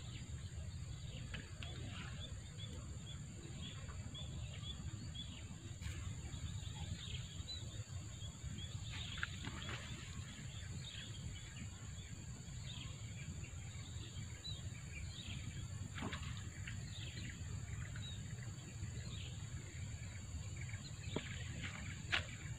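Birds chirping outdoors: one bird gives a run of short repeated chirps, about two a second, through the first half, then scattered calls follow. Underneath are a steady high-pitched drone and a constant low rumble, with a single sharp click near the end.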